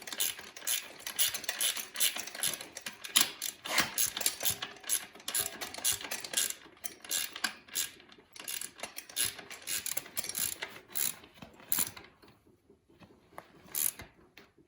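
Hand ratchet wrench clicking in quick runs as the rear shock and linkage bolts are snugged up, thinning to a few clicks near the end.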